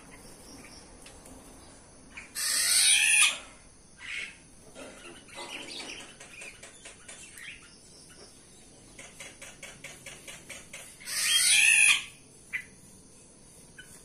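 Caged birds in an aviary: two loud, noisy bursts about a second long, one a couple of seconds in and one near the end. Between them come softer short chirps and a quick run of faint ticks.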